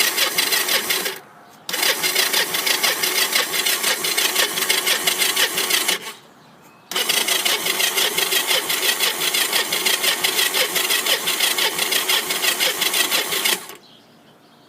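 Kawasaki three-wheeler's engine cranking on its electric starter in three bursts, a short one, then about four seconds, then about six and a half seconds, with brief pauses between and a stop near the end. It is a cold start with the choke on, and the engine does not catch because fuel has not yet reached the carburetor.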